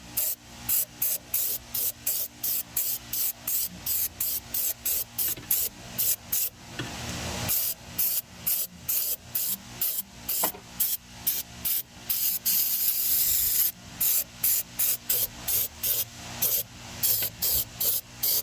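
Rapid back-and-forth hand scraping or scrubbing strokes, about two to three a second, broken twice by a longer steady hiss, once about seven seconds in and again near thirteen seconds.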